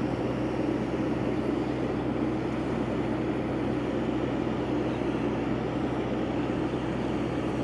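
Heavy-equipment diesel engine running steadily under a constant hum, with no change in pitch or level.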